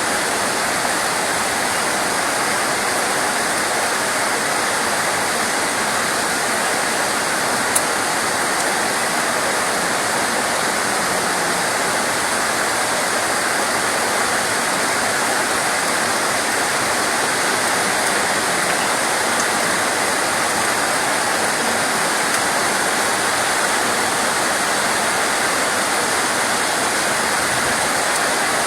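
Steady heavy rain: an even, unbroken hiss of falling water with no change in strength, and one brief tick about eight seconds in.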